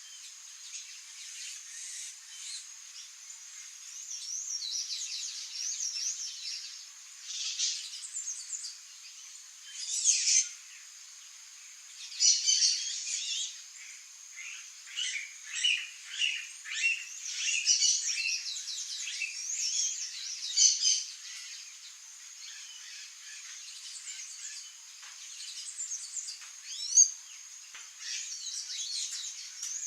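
Small songbirds chirping and singing in quick, overlapping phrases that come in clusters, with a steady high insect buzz underneath.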